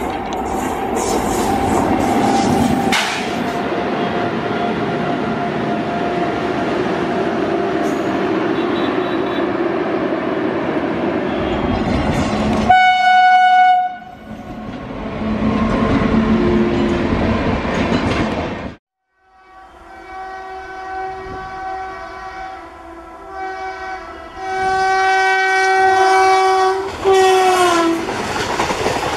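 Indian Railways trains passing at speed, coaches and wheels rumbling and clattering on the track. A locomotive horn sounds once about 13 seconds in. After a sudden cut, a run of locomotive horn blasts fills the second half, the last long blast dropping in pitch.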